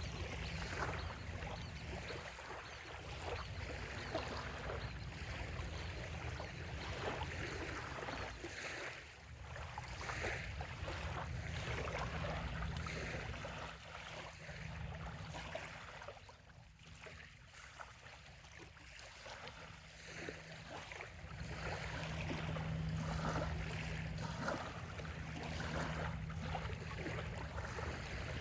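Small waves lapping and splashing irregularly at a sandy bay shoreline, over a steady low rumble. The lapping eases off for a few seconds around the middle, then picks up again.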